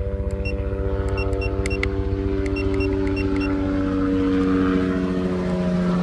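Steady motor hum with several tones that drift slightly lower partway through, over low wind rumble on the microphone, with a few short electronic beeps.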